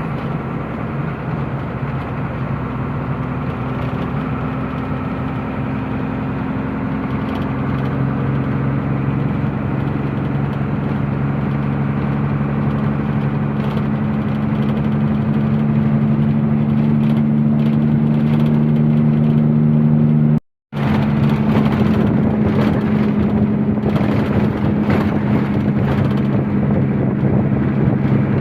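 Heavy engine running steadily with a low, even hum; its note shifts a little about seven seconds in and it grows gradually louder. The sound cuts out completely for a split second about twenty seconds in.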